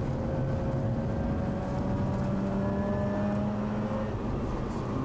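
Mazda RX-8's two-rotor Wankel rotary engine running at speed, heard from inside the cabin over road noise; its note holds steady, then eases off about four seconds in.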